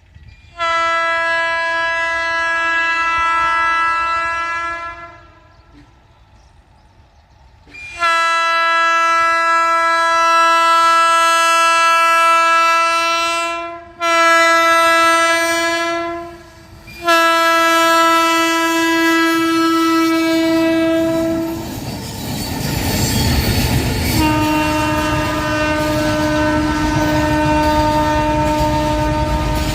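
Indian Railways WAG-12B twin-section electric locomotive sounding its air horn in five long blasts on one steady note. About two-thirds of the way through, the rumble and wheel clatter of the approaching double-stack container freight train rise and continue under the last blast.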